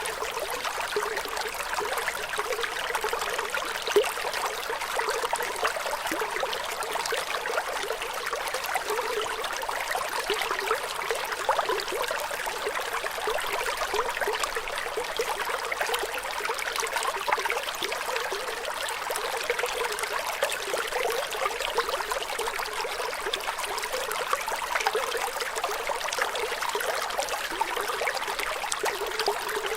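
Flowing water trickling and splashing steadily, a bright stream-like rush with little low rumble and one slightly louder splash about four seconds in.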